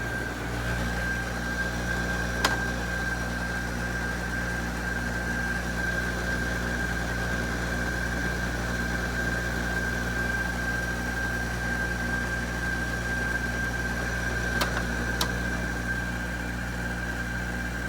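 LG 12,000 BTU air conditioner running after winter storage: a steady low hum with a steady high whine above it. A few short sharp clicks cut in, one about two and a half seconds in and two close together near the end.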